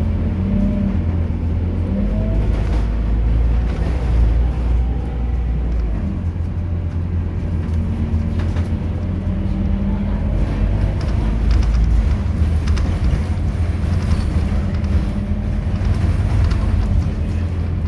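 Scania K230UB city bus's five-cylinder diesel engine running under way: a loud, steady low drone whose pitch shifts about six seconds in and again around ten seconds.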